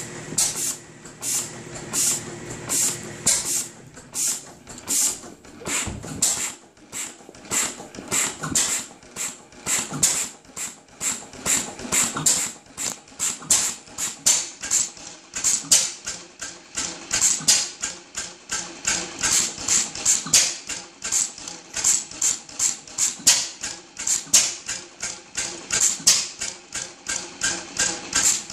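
1925 Deville No. 3 engine running at slow speed after starting, with evenly spaced sharp firing beats. The beats come about two a second at first and pick up to about three a second.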